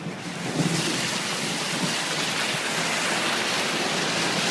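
Heavy rain pouring down as a loud, steady hiss that swells about half a second in.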